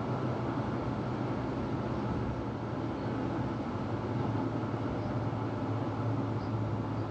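Steady running noise of a moving tram heard from inside the car: an even rumble of wheels on the rails with a low hum.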